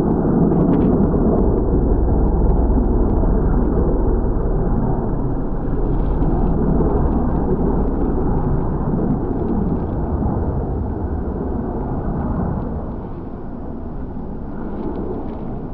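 Deep, steady rumble of the Antonov An-12BK's four turboprop engines during its landing, getting somewhat quieter near the end.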